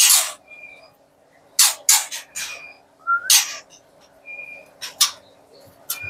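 White-rumped shamas calling in the aviary: a short whistled note repeated every couple of seconds, and several loud, harsh rasping calls, with a brief rising whistle about three seconds in.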